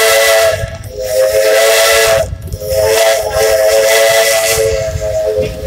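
Port Huron three-chime steam whistle on the steam locomotive Myron H, blowing three blasts of a chord with a breathy steam hiss. The last blast is the longest, about three seconds.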